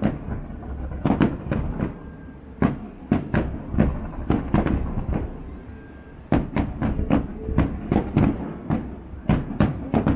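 Aerial firework shells bursting in rapid, irregular volleys of sharp bangs, with a short lull about halfway through.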